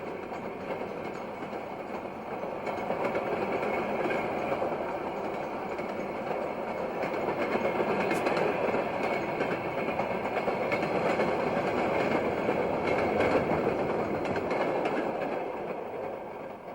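Freight train rolling past: the steady noise of its cars running on the rails, swelling and easing, then dying away near the end.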